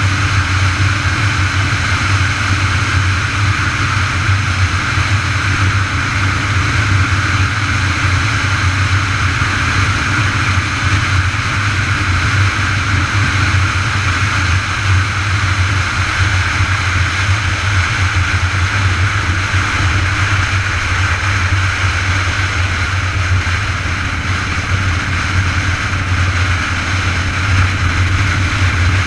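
Steady, loud rumble and rush of wind and road noise on a camera riding along on a moving bike, unbroken throughout.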